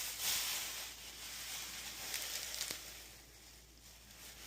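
Faint rustling with a couple of light ticks as fresh cilantro is handled and sprinkled onto a plate of food, fading toward the end.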